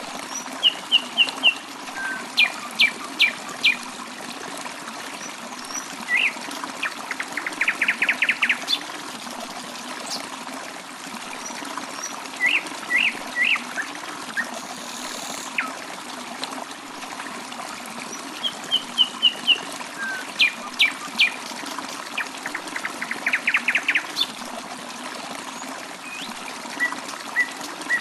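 Songbirds chirping in short clusters of high notes, twice breaking into a fast trill, over a steady trickle of running water. The same run of calls comes round again about halfway through.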